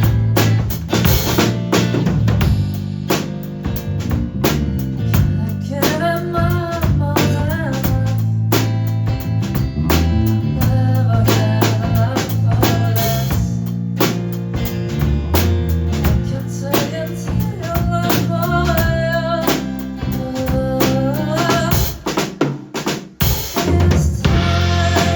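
Live band playing a song: drum kit and bass keep a steady groove while a melody line comes in phrases over it. The band briefly thins out about 22 seconds in, then comes back in full.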